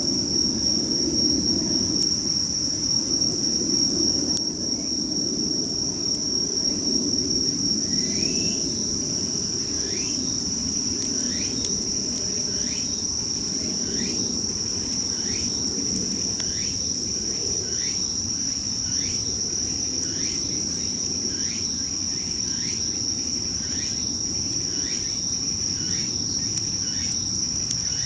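Insects singing: one holds a steady, unbroken high trill, and from about a third of the way in a second insect joins with a short falling chirp repeated about once a second. A low steady rushing noise runs underneath.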